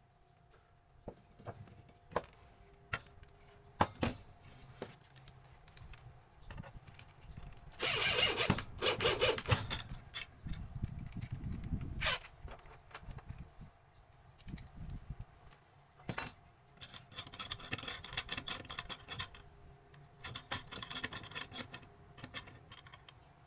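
Metal and wooden tool parts being handled and worked by hand: scattered clicks and knocks, a loud scraping rattle about eight seconds in, and two later stretches of quick rattling scrapes near the end.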